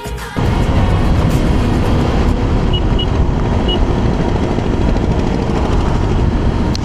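Riding on a motorcycle at highway speed: steady, loud wind and road noise buffeting the microphone over the engine, cutting in abruptly just after the start as background music ends. Three short, faint high beeps sound near the middle.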